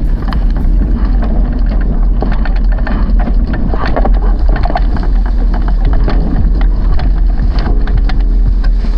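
Wind buffeting the microphone aboard a sailing dinghy under way in strong wind, a heavy steady rumble, with water against the hull and frequent short knocks.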